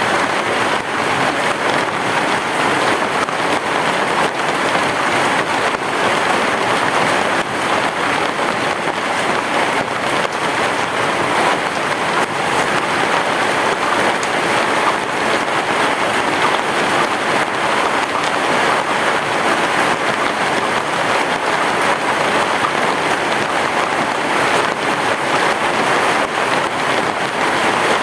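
Heavy rain falling steadily, an even, dense patter with no thunder.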